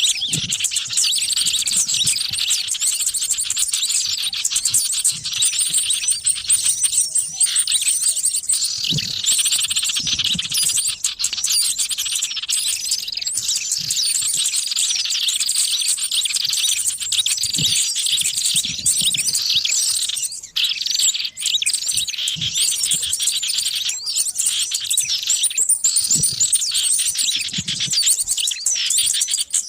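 A busy chorus of many small birds chirping and twittering without a break, high-pitched and densely overlapping: a bird-lure (pikat) recording of small birds calling noisily.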